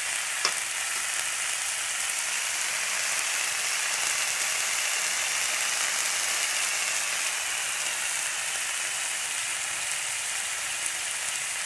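Cauliflower florets and onions frying in oil in a cast-iron kadai: a steady sizzle, with a single click about half a second in.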